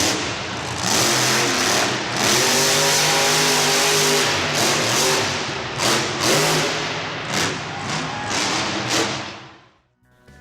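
A large engine revving up and down over a harsh roar, then cutting off shortly before the end; a monster truck engine.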